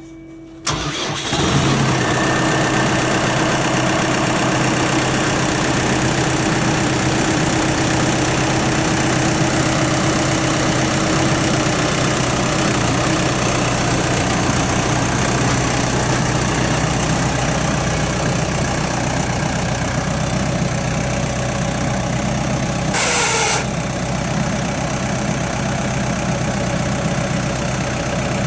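New Holland T4050 tractor's diesel engine starting almost at once, then idling steadily. A brief burst of noise about 23 seconds in.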